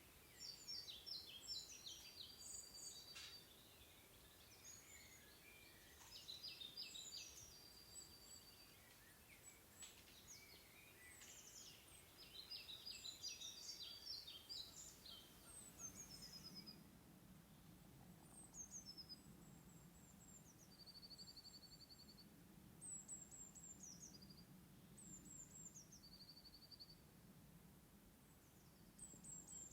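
Songbirds singing faintly in short repeated phrases of high, trilled notes. About halfway through, the song changes to shorter phrases of quick falling notes, each ending in a held whistle, over a faint low hum.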